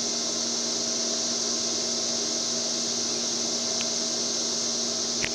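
A steady high-pitched chorus of cicadas, unbroken throughout, over a steady low mechanical hum.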